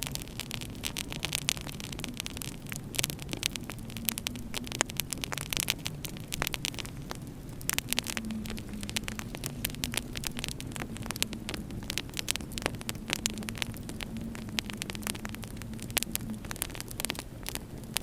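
Wood fire crackling in a fireplace, with many quick snaps and pops, over a low, slowly wavering howl of winter wind.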